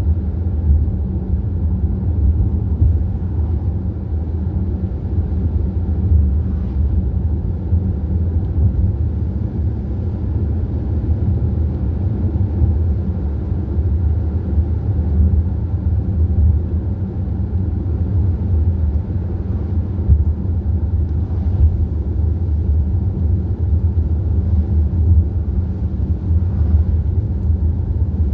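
Steady low engine and road rumble inside the cabin of a car cruising at speed.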